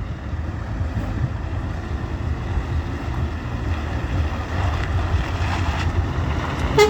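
Steady low rumble of idling truck engines, with wind buffeting the microphone. A truck horn begins to blast right at the end.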